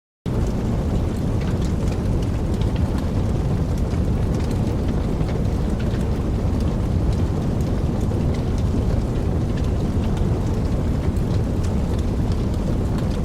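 Fire burning: a steady deep rush with many scattered sharp crackles and pops, cutting in suddenly right at the start.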